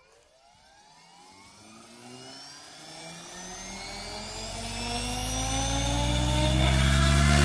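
Radio-controlled helicopter spooling up: a whine rising steadily in pitch and growing louder, with a low rotor hum building beneath it from about halfway in.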